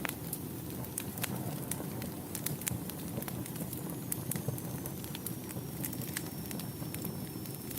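Fireplace fire crackling: irregular sharp pops and snaps over a low, steady rush of flames. From about halfway a faint high whistle slowly drops in pitch.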